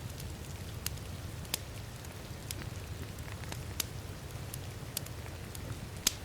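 Crackling wood fire in a fireplace, with sharp pops about once a second and the loudest near the end, over a steady hiss of heavy rain and a low rumble.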